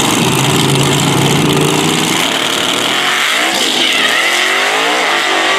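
Drag race car engines running loud, with the pitch rising from about three seconds in as a car accelerates.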